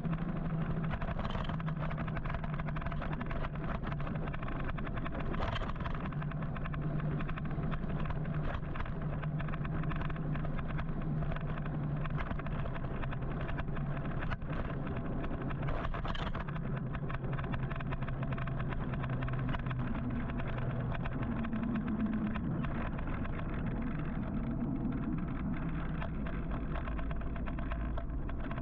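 Road traffic heard from a moving electric motorcycle in city traffic: steady tyre and wind rumble with the hum of cars and engines around it. A low hum holds steady, then shifts a little higher about three quarters of the way through.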